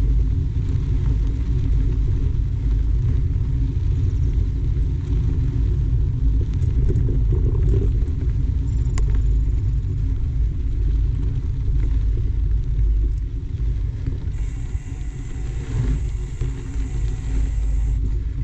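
Steady low rumble of wind buffeting the camera microphone while riding a mountain bike, mixed with tyre noise on the trail.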